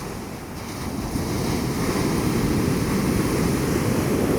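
Ocean surf and wind buffeting the microphone: a steady low rushing noise that grows louder about a second in.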